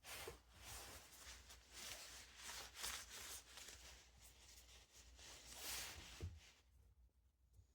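Faint rubbing and wiping noise in uneven strokes, as small fan motor parts are cleaned by hand. It stops a little before the end.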